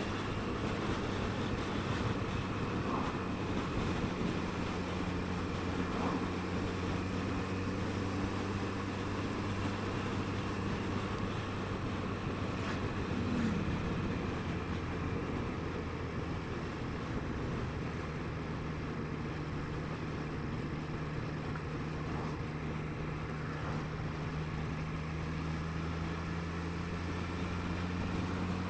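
Triumph Street Triple 765 R's three-cylinder engine running at a steady cruise, with wind noise over it. The engine note holds fairly even, with a brief shift in pitch about halfway through.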